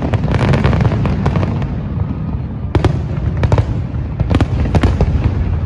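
Fireworks display: a dense run of sharp cracks and bangs over a continuous low rumble of booms.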